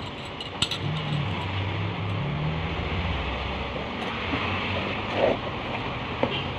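A steady engine-like rumble and hum, like a vehicle running, with a few light clicks near the start and again around five and six seconds in.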